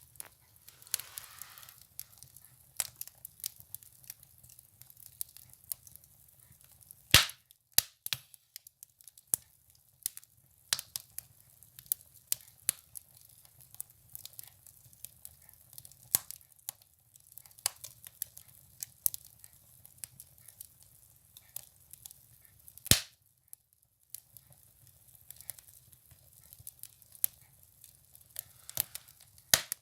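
Firewood burning in a stove: irregular crackling with scattered sharp pops, two loud snaps at about seven seconds in and near the middle, over a faint low hum.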